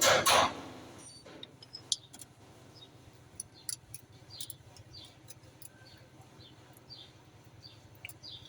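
Strummed guitar music cuts off within the first second. It leaves a faint low hum with many short, high, falling chirps of small birds and a few light clicks.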